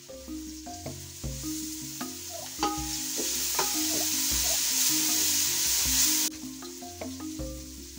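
Food sizzling in hot oil in an aluminium pot over a wood fire, with a wooden spatula scraping and stirring against the pot. The sizzle swells a second or so in and cuts off suddenly about six seconds in.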